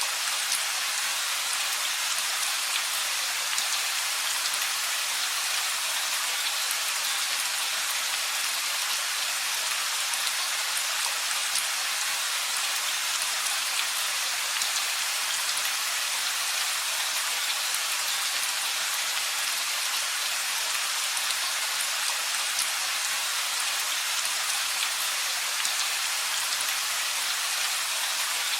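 Steady rain falling, an even hiss of drops on surfaces with fine individual drop ticks.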